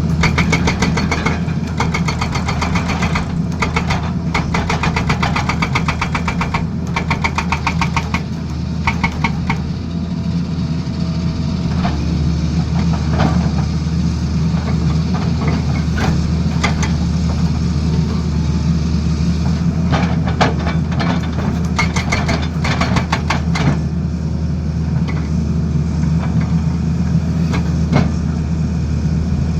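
Tata Hitachi Zaxis excavator's diesel engine running steadily, with several bursts of rapid, evenly spaced hammering from a hydraulic breaker, each lasting one to three seconds.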